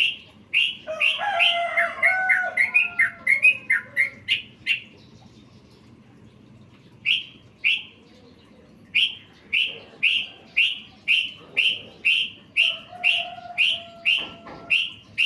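Yellow-vented bulbul (trucukan) singing: a run of short, sharp, downward-sweeping notes at about two a second, with bursts of whistled, warbling phrases early on and again near the end.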